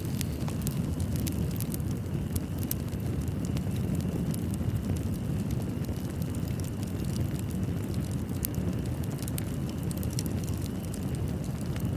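Wood fire burning in a fireplace: a steady low rumble of flames with frequent small sharp crackles and pops scattered throughout.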